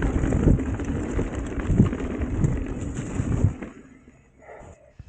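Mountain bike riding down a muddy trail: rushing wind and tyre noise with irregular thumps and rattles from the bike over rough wet ground. The noise falls away sharply about three and a half seconds in as the bike slows.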